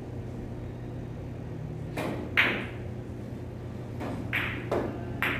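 Carom billiard balls in a three-cushion shot: a cue tip strikes the cue ball about two seconds in, followed by a loud, ringing clack of balls colliding and then three more sharp clacks.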